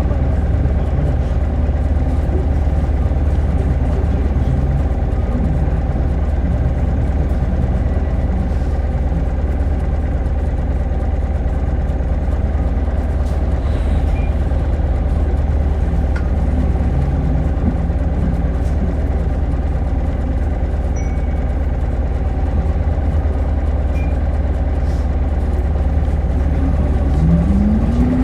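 Keio city bus, a 2SG-HL2ANBP, idling with a steady low hum. Near the end a rising whine sets in as the bus starts to pull away.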